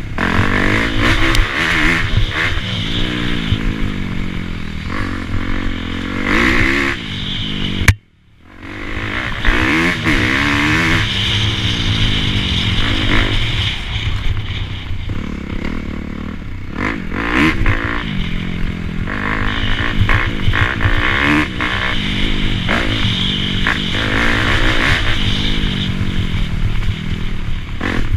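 Dirt bike engine revving up and down as it is ridden, its pitch repeatedly climbing and falling with throttle and gear changes. The sound cuts out sharply about eight seconds in, then the engine returns.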